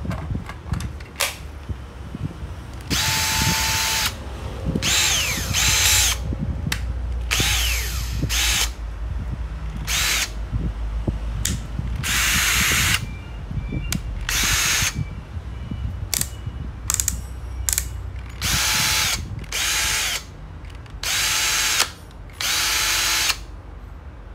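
Ryobi cordless drill/driver run with no load in about ten short trigger pulls, each half a second to a second and a half long. The motor whine rises as it spins up and falls away as it winds down.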